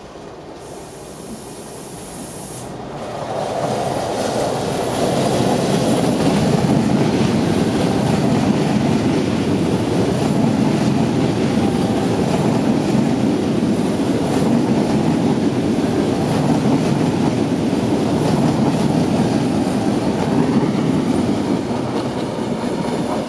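Czech Railways class 680 Pendolino electric tilting train passing at speed. A rushing rumble of wheels on rails swells about three seconds in as the train nears, then runs steady and loud while the carriages go by, easing slightly near the end.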